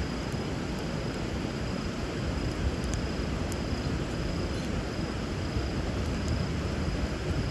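River water running steadily, with a bonfire giving a few faint crackles and pops over the rushing.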